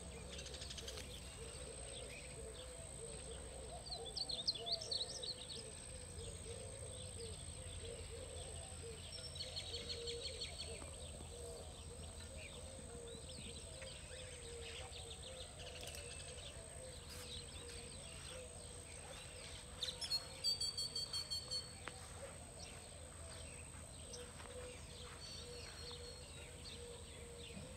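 Birds calling in the background: scattered short calls, with a quick run of repeated notes about two-thirds of the way through as the loudest part. A faint steady hum runs underneath.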